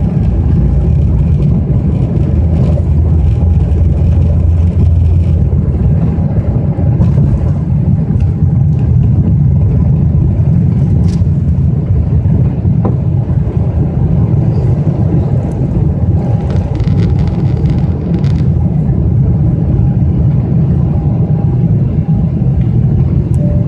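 The General Electric GE90-115B turbofan engines of a Boeing 777-300ER running at high thrust during takeoff. They make a loud, steady low rumble with a faint steady tone above it.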